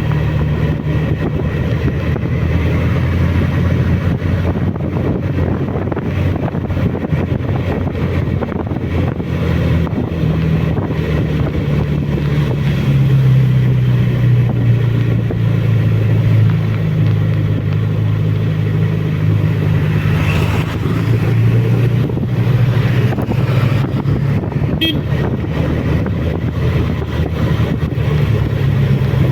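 Suzuki Bandit's inline-four motorcycle engine running steadily while riding, heard from on board; about thirteen seconds in the engine note drops lower and gets louder.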